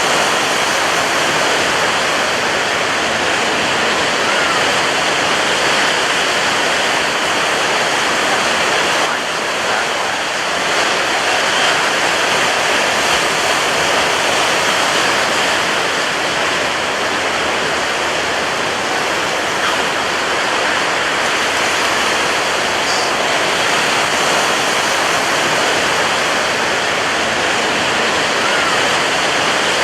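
Ocean surf: a steady wash of breaking waves on a beach, with a short lull about nine seconds in.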